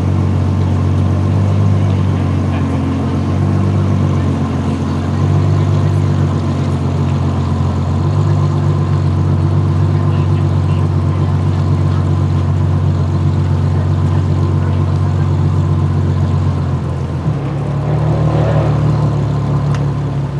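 A car's engine running at low revs: a deep, steady drone whose tone shifts about seventeen seconds in.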